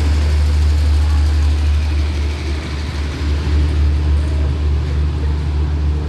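Diesel-hauled passenger train pulling slowly out of the station, with a steady low rumble from its engines as the coaches roll past.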